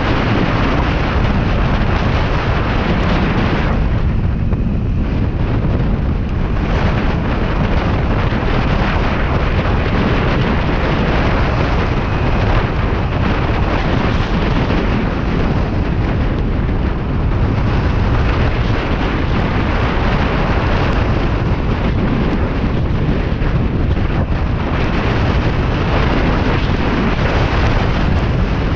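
Steady, heavy wind rush buffeting the microphone of a Kawasaki Ninja 400 riding at speed, drowning out the engine.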